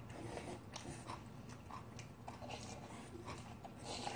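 Faint chewing and mouth sounds of people eating bean sprout rice soup, with small irregular clicks throughout.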